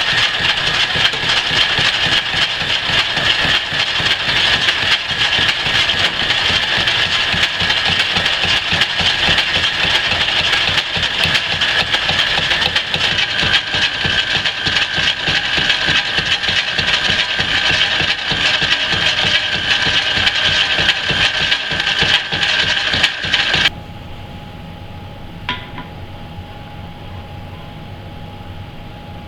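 Metal lathe running under a cut: a loud rattling, chattering machining noise with a steady high whine. It cuts off suddenly about 24 seconds in, leaving a faint steady hum with a single click a couple of seconds later.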